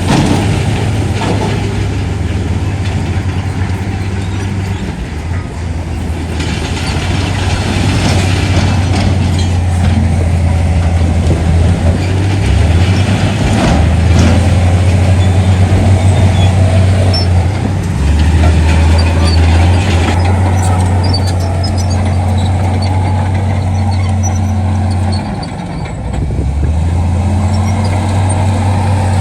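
Heavy diesel earthmoving machinery running: a deep, steady engine drone that dips briefly near the end and then picks back up.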